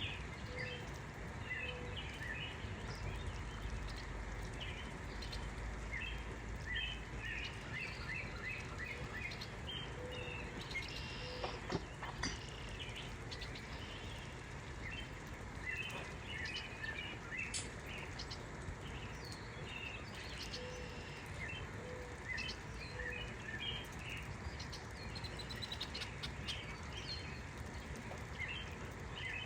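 Several small birds chirping and singing in quick, short notes throughout, over a steady outdoor hiss. Now and then a lower call of two or three short notes sounds.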